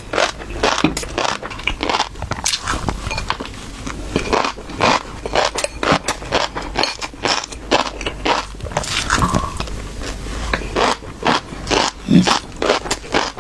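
Fish roe being worked close to the microphone: many short, irregular clicks and scrapes, several a second.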